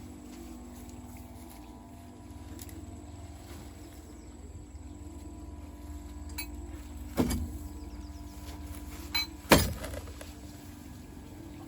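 An engine running steadily with an even low pulse, with sharp metallic knocks about two-thirds of the way through and a louder pair near the end.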